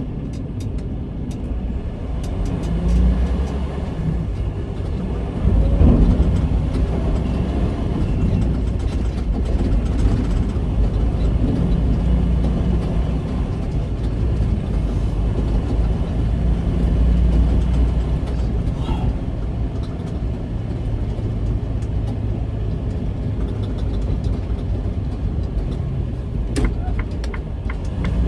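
Semi-truck's diesel engine running with a deep road rumble, heard from inside the cab as the truck drives along, swelling and easing at times. A run of quick ticks comes near the end.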